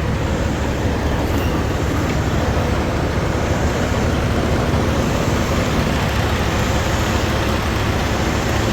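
Steady rumble and hiss of idling diesel truck engines, running evenly without change.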